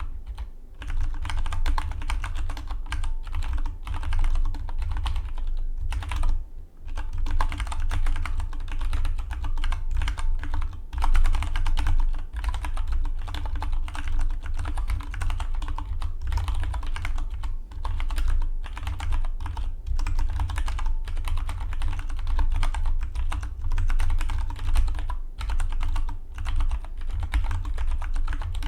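Fast, continuous typing on a Dygma Defy split mechanical keyboard: a rapid stream of key clicks with a short pause about six seconds in.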